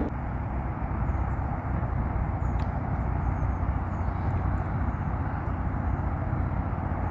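Steady low outdoor rumble with a light hiss, even throughout, with no distinct events.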